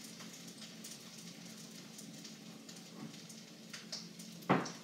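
Fried rice sizzling faintly in a wok on low heat, with scattered small ticks and a steady low hum, and one sharp knock near the end.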